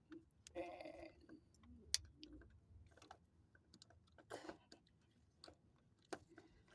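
Faint scattered plastic clicks and handling noises as the wiring connector on a minivan's ignition coil pack is unlatched at its red lock and pulled off. The sharpest click comes about two seconds in.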